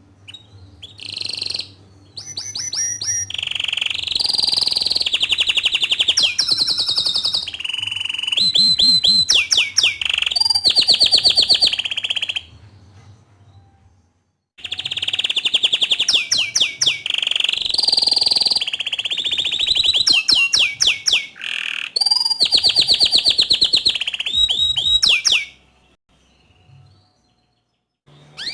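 Bottle-green domestic canary singing: long phrases of fast trills and rolls, in two long bouts separated by a short pause about halfway through.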